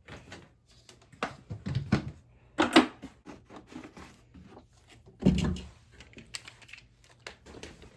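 Rattling and clicking of dry horse feed being scooped and poured into feed pans, with a few louder knocks of the scoop and containers, the loudest about three seconds in and just after five.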